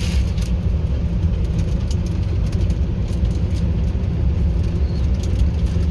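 YaMZ-236 diesel engine of a TU6A narrow-gauge locomotive running steadily as the locomotive travels, heard from inside the cab as a continuous low drone with faint scattered clicks.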